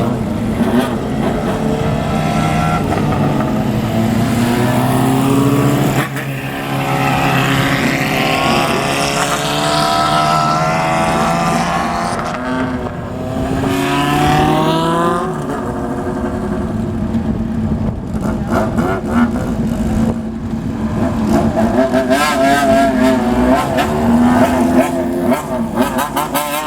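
Motorcycles riding off one after another, engines revved hard so their loud exhaust note climbs and falls repeatedly, with several bikes overlapping.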